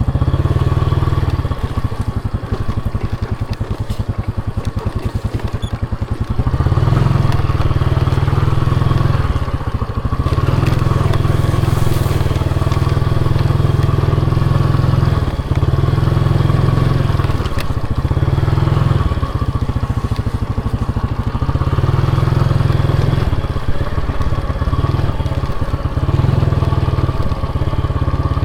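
Motorcycle engine running on a ride, the throttle repeatedly easing off and opening again; it grows louder about six seconds in.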